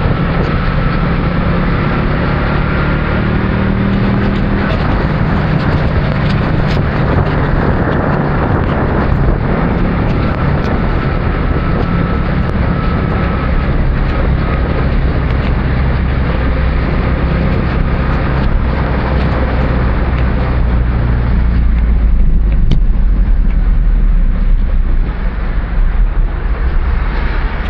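Motorcycle running along the road, its engine a steady low hum under a dense rush of road and wind noise; about three quarters of the way in, a heavy low rumble takes over.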